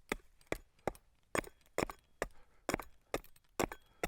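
Hand tool chopping into cedar as a shake is split and trimmed, a run of sharp wooden knocks at about two to three blows a second.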